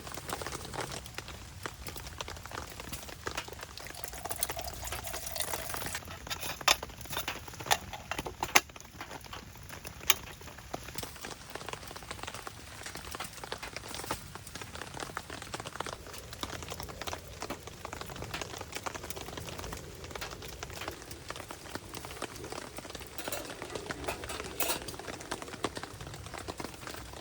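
Water heating toward the boil in a pot over a crackling wood fire: a steady bubbling hiss with the fire's crackle, and several sharp pops, most of them between about six and ten seconds in.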